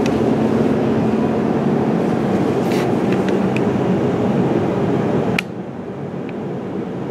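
Steady mechanical rumble with a low hum and a few faint ticks. About five and a half seconds in, a sharp click comes, and after it the noise drops to a quieter steady level.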